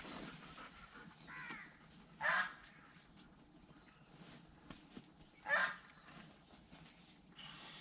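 A bird calling outdoors: a faint call about one and a half seconds in, then two louder short calls about three seconds apart.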